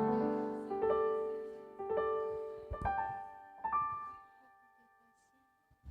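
Piano accompaniment playing a slow run of chords, each struck and left to ring, about one a second, dying away about four seconds in.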